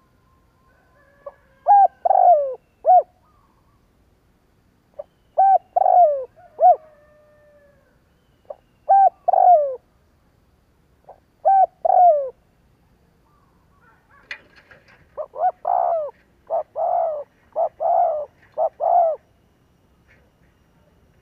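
Spotted dove (Streptopelia chinensis) calling: four short cooing phrases about three seconds apart, then a longer run of quick coos near the end. A recorded call used as a lure to stir wild spotted doves into calling.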